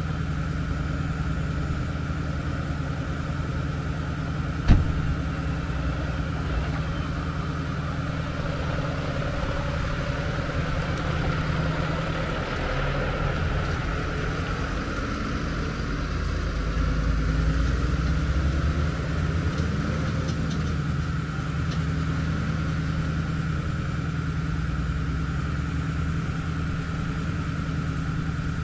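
Ford F450 recovery truck's engine idling steadily, with one sharp bang about five seconds in. About halfway through the engine note rises and grows louder as the truck is driven forward a short way, then settles back to idle.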